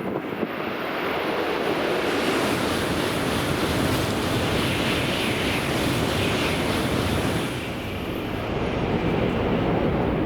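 Sanyo Shinkansen train running past the platform: a loud, steady rushing roar that builds over the first two seconds, dips briefly near the end, then swells again.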